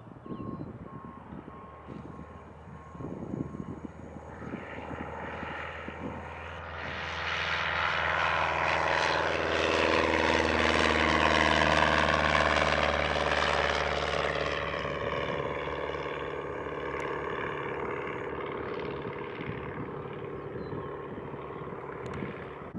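Single-engine propeller airplane passing by: its engine and propeller drone builds up, is loudest about halfway through, then fades away.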